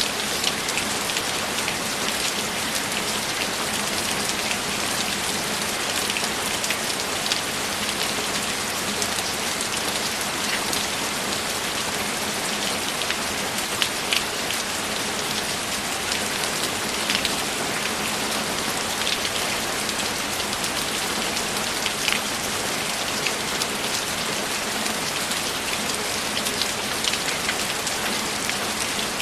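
Steady rain falling, a dense even hiss with scattered close drops ticking on a surface.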